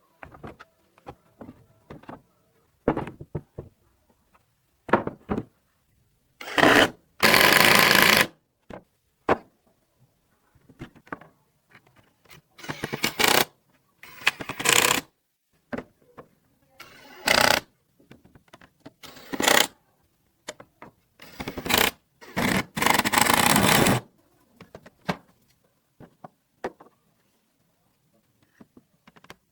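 Workshop tool noise on bamboo and wood: about eight loud bursts lasting from half a second to about two seconds, with light knocks and clicks between them.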